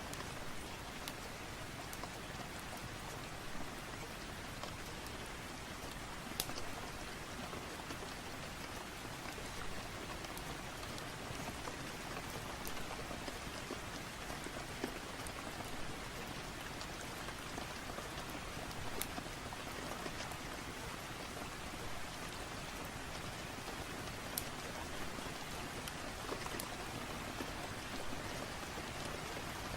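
Steady rain falling, with scattered sharp ticks of individual drops or small pops through it.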